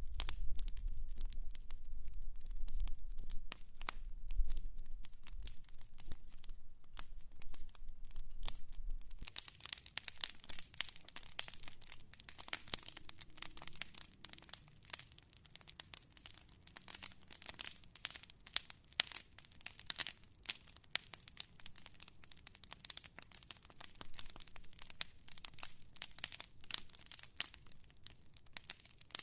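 Wood fire crackling, with a dense run of sharp pops and snaps. A low rumble underneath stops about nine seconds in, and after that the crackle is brighter and hissier.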